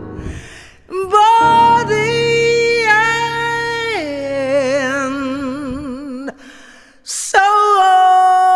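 Female jazz voice holding long notes with a wide vibrato over sustained piano chords, dropping to a lower note about four seconds in. Breaths can be heard before the phrases, about half a second in and again near the end.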